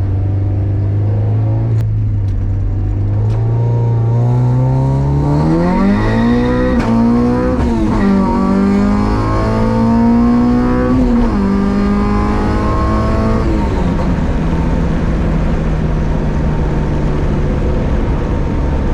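Honda H2B four-cylinder engine in a Civic under way: it runs steadily, then climbs in revs and drops back in steps several times before settling into a steady pull.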